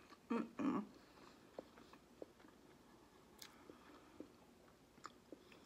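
A person chewing a mouthful of instant noodles with her mouth closed: faint wet mouth clicks and smacks, with two louder short mouth noises about half a second in.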